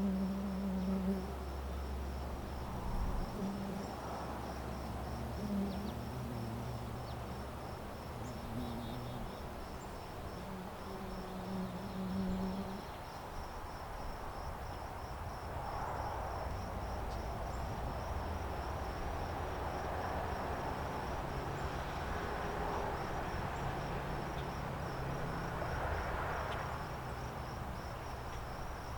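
Crickets chirping in a steady, fast pulsing trill. A low buzzing drone comes and goes underneath and stops about halfway through.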